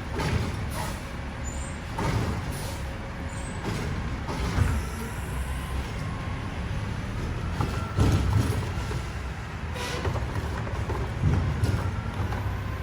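Mack LR garbage truck with a Heil Durapack Rapid Rail body running, a steady low engine rumble broken every couple of seconds by short bursts of hiss and clatter from its air and mechanical systems.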